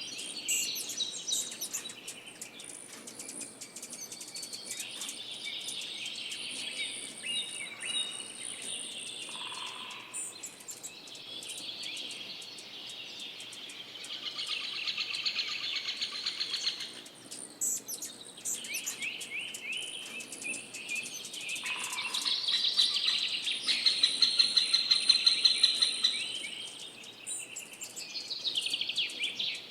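Songbird singing in long, varied phrases of whistles and fast trills, with short pauses between phrases; the loudest, fastest trilling comes about three-quarters of the way through.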